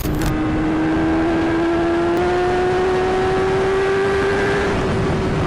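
Motorcycle riding at speed: a steady engine note slowly rising in pitch, over a heavy rush of wind and road noise.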